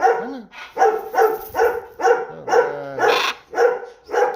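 A run of about nine short, dog-like barks, roughly two a second.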